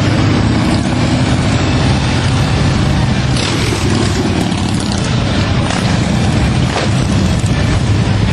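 Motorcycle engine running with a loud, steady rumble.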